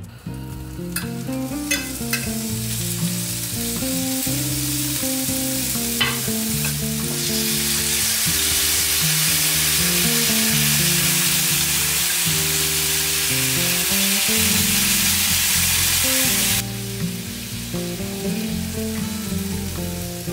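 Chicken thigh pieces sizzling in a cast-iron pan, with a few sharp clicks in the first six seconds. The sizzle grows louder about seven seconds in and drops off abruptly a few seconds before the end.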